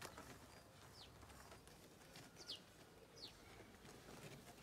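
Near silence, with three faint, short bird chirps that fall in pitch, about one, two and a half, and three seconds in.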